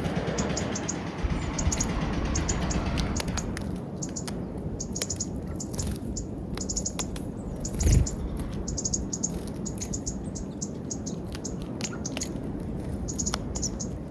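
Small wild birds chirping, many short high notes repeating in quick runs over a steady low background rumble, with one brief loud thump about eight seconds in.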